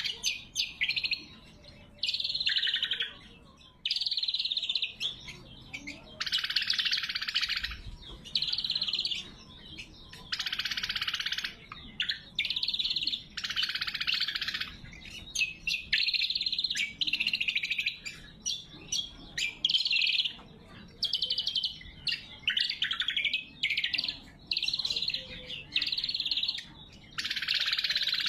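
Greater green leafbird (cucak kombo) singing: loud, sharp song phrases of about a second each, repeated over and over with short pauses between them.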